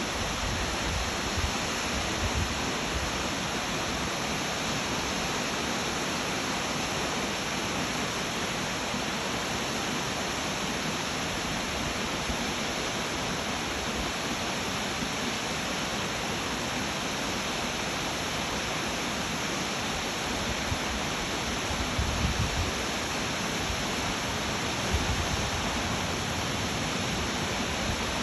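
Waterfall rushing, a steady even roar of falling water, with a few brief low thumps about three quarters of the way through.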